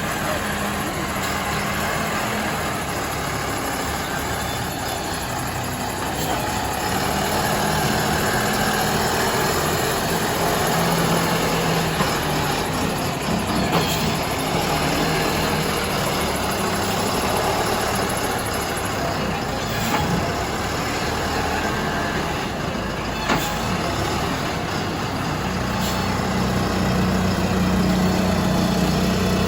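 Diesel engine of a wheel loader running steadily, its note swelling and easing at times as the machine works, with a few short metallic knocks.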